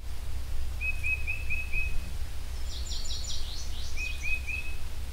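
Birds calling: a short note repeated about four times a second in two runs, with a quick series of higher downward-sweeping notes between them, over a steady low rumble.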